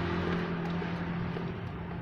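A motor vehicle passing by and moving away, its engine hum and tyre noise fading.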